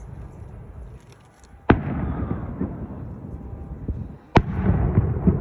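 Aerial firework shells bursting: two sharp bangs about two and a half seconds apart, each followed by a rumble that dies away over a second or so.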